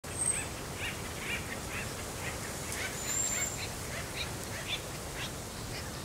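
A bird calling in a steady series of short, chirpy notes, about two a second, over a low background hiss, with a thin high whistle near the start and another about three seconds in.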